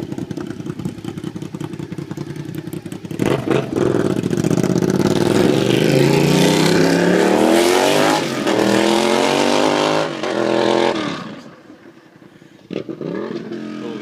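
Honda RC51's 90-degree V-twin running with no mufflers on its open exhaust. It idles in fast pulses, then about three seconds in is revved up, its pitch climbing steadily for several seconds. It falls away suddenly, then gets a quick blip near the end and settles back to idle.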